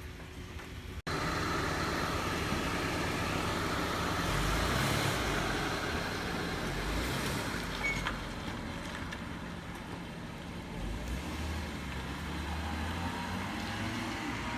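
Road traffic passing: a steady rushing noise with a low rumble that swells twice as vehicles go by. A short audio dropout about a second in marks a cut.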